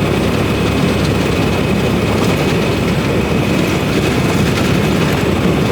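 Steady low rumble of a semi truck's engine and running noise, with no distinct events.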